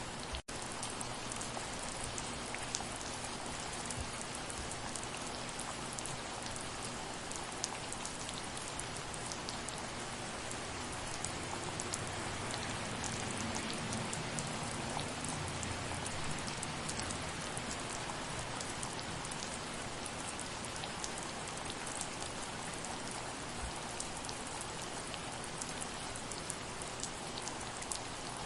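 Steady rain falling, an even hiss with scattered sharp individual drop hits. The sound drops out for an instant about half a second in.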